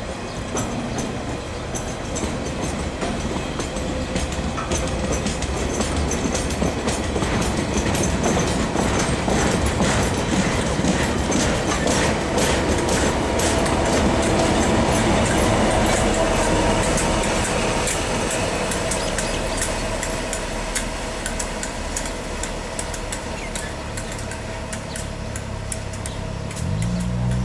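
Rail wagons and track-maintenance machines of a work train rolling past, their wheels clicking steadily over the rail joints. Near the end the diesel engine of a KiwiRail DC-class locomotive comes in with a low hum that rises in pitch.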